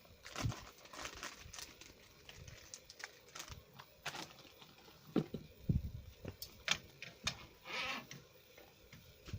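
A series of irregular clicks and knocks, a few of them low and heavy, as of hard objects being handled and set down.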